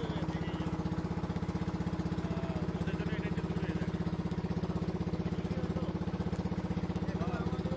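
A river boat's engine running steadily with a fast, even chugging beat. Faint voices are heard over it.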